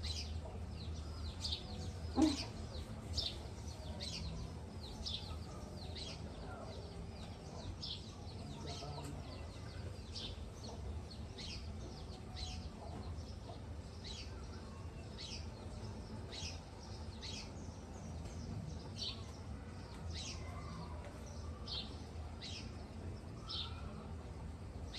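A bird chirping over and over, short high falling chirps about once a second, over a low steady hum. One short sharp knock about two seconds in.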